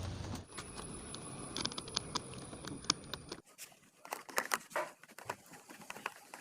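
Scattered light clicks and taps, as of small parts being handled. The steady background hiss cuts off abruptly about halfway through, and the clicking goes on after it.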